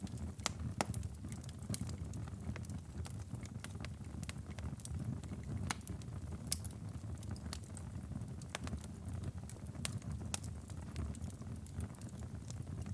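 Wood fire in a fireplace crackling, with irregular sharp pops every fraction of a second over a steady low rumble.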